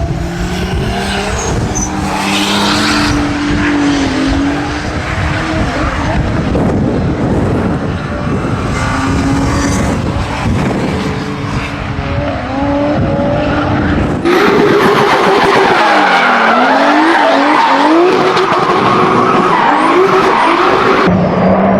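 Toyota Supra Mk4 with its 2JZ inline-six engine drifting: the engine revs rise and fall as the rear tyres squeal and skid. About two-thirds of the way through the sound switches to another drift run, louder, with the revs swinging up and down repeatedly.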